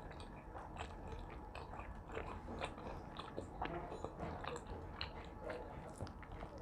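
Close-up mouth sounds of a person chewing food: irregular wet smacks and small crunches, several a second.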